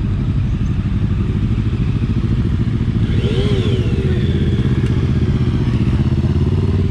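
Motorcycle engine running steadily while being ridden, with a brief rise and fall in pitch about three and a half seconds in.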